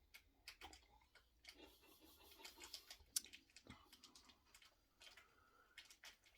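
Near silence with faint mouth sounds and small clicks of a person sipping and tasting a cider, with one sharper click about three seconds in.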